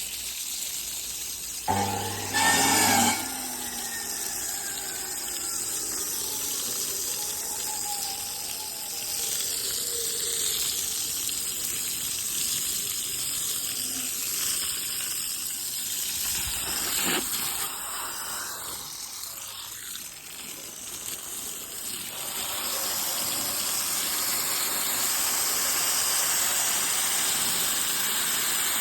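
Water gushing from a hose or pipe for curing concrete, a steady rush that gets louder for the last several seconds. A short loud burst of sound comes about two seconds in.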